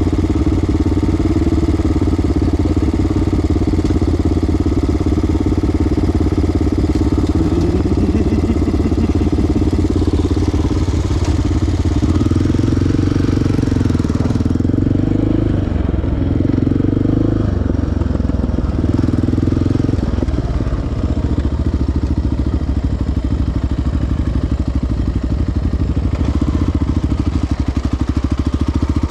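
Sport quad's single-cylinder four-stroke engine running steadily at low speed, its pitch wavering up and down a little after about twelve seconds, then settling again.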